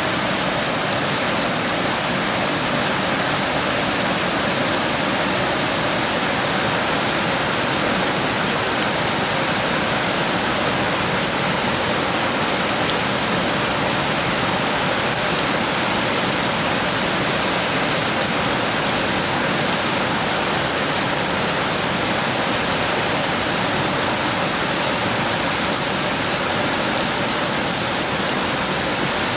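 Heavy rain falling steadily: a dense, even rush of noise with no thunder in this stretch.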